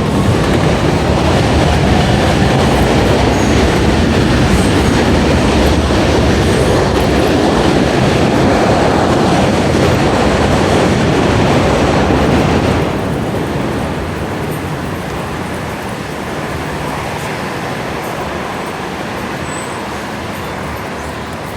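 New York City subway train running on the rails with wheel clatter, loud for about thirteen seconds, then falling off suddenly to a quieter steady background rumble.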